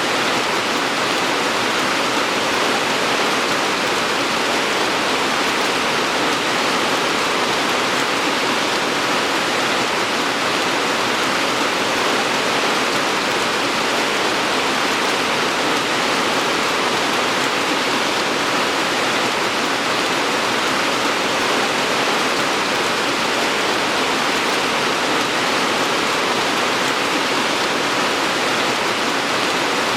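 Steady heavy rain falling, an even hiss with no single drops or other sounds standing out.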